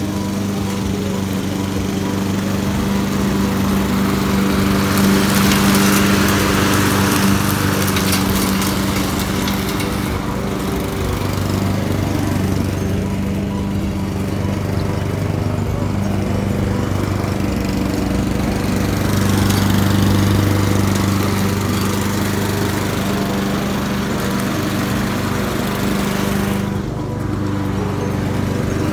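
Walk-behind lawn mower's engine running steadily while mowing grass.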